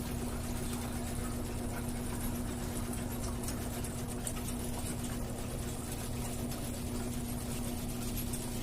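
Washing machine motor running with a steady, even hum.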